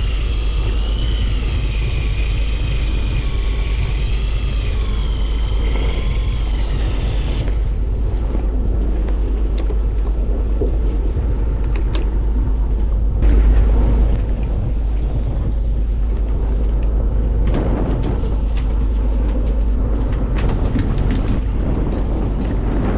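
Deep steady rumble of a fishing boat under way, with wind buffeting the microphone. A wavering high whine runs over it and cuts off about seven seconds in, followed by a short beep. A louder thump comes about thirteen seconds in, and a few clicks follow.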